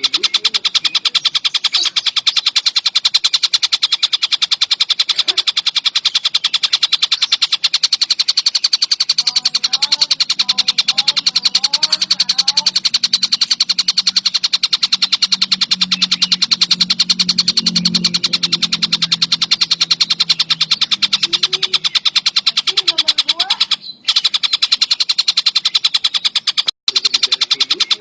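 Tengkek buto bird calling: a fast, unbroken rattling chatter of many high notes a second, kept up with only a couple of short breaks.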